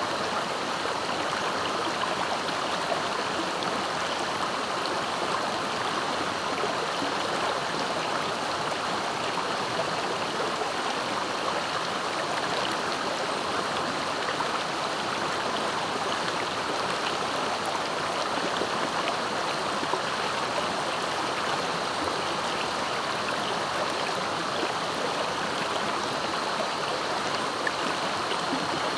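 Swift-flowing river water running steadily, an even rushing sound with no breaks.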